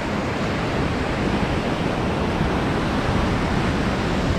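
Ocean surf washing up on a sandy beach: a steady rush of waves with no single distinct crash, with some wind rumbling on the microphone.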